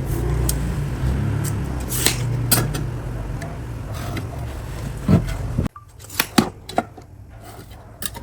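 Workshop handling noise: scattered clicks and knocks over a low steady rumble. It cuts off suddenly about five and a half seconds in, leaving a quieter background with a few more clicks.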